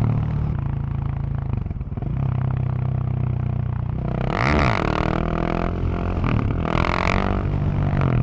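Husqvarna 701's single-cylinder exhaust while riding, running at a steady pitch. Around halfway through the engine note dips and rises again twice as the throttle is rolled off and back on.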